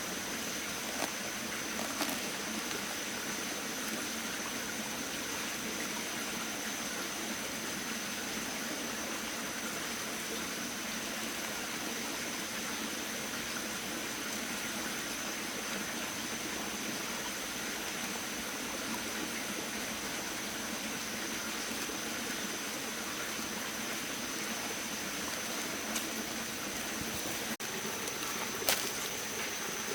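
Steady rushing water with a thin, steady high tone over it, and a few short knocks, one about two seconds in and two near the end.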